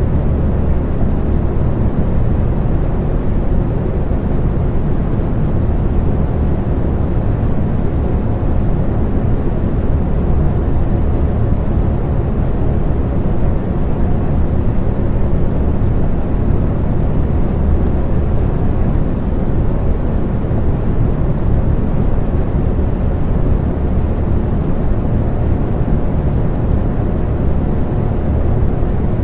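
Electric fan running steadily, a low, even whir with a faint hum from its motor.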